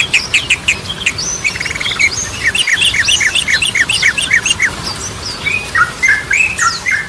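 Yellow-vented bulbul singing: a quick run of chattering, falling notes at about five a second in the middle, then repeated two-note phrases near the end.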